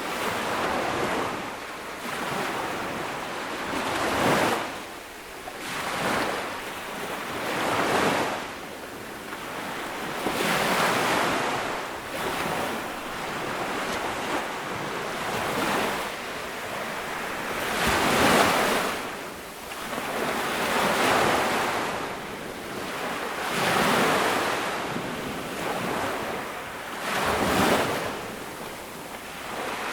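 Small ocean waves breaking and washing up a sandy beach, a steady hiss of surf that swells with each wave every two to three seconds.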